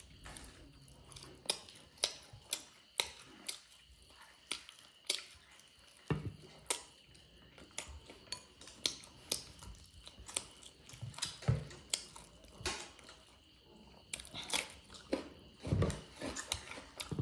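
Close-up eating sounds of chicken and cucumber: chewing and crunching, with irregular sharp clicks and a few low knocks.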